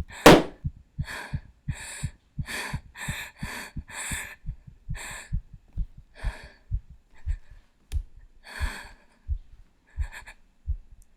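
A heartbeat thumping under quick, shaky breaths, the beats and breaths both slowing over the seconds: the sound of someone frightened and hiding, trying to stay quiet.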